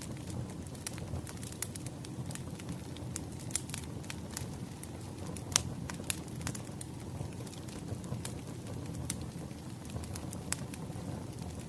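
Wood fire crackling: a steady low rumble of burning logs with irregular sharp pops and snaps, the loudest pop about halfway through.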